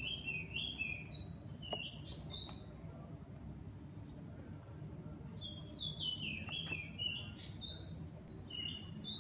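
Small birds chirping. Several runs of short, quick chirps, each falling in pitch, with pauses of a second or two between the runs, over a steady low background rumble.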